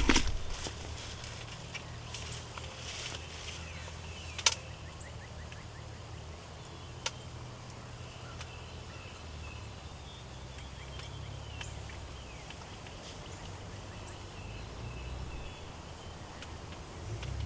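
Quiet outdoor field ambience: a steady low rumble, faint distant bird calls, and two sharp clicks, about four and a half and seven seconds in.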